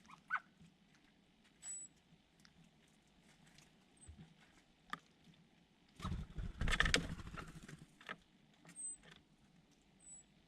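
Small birds close to the microphone: scattered pecking taps and a few faint, short, high chirps, then a loud flurry of flapping and scuffling lasting about two seconds, starting about six seconds in.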